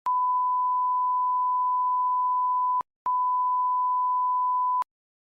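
Electronic test tone: one steady pure beep held for nearly three seconds, a short break, then the same beep again for nearly two seconds.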